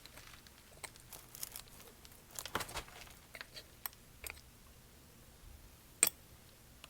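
Scattered light clicks and taps of tools and parts being handled, with a few rustles, and one sharper click about six seconds in.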